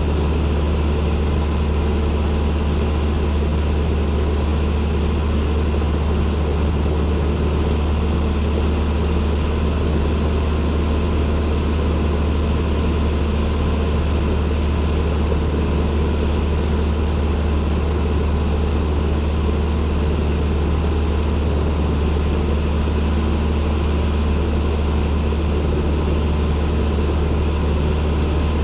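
Cessna 172N's four-cylinder Lycoming engine and propeller running steadily, a constant low drone with no change in pitch.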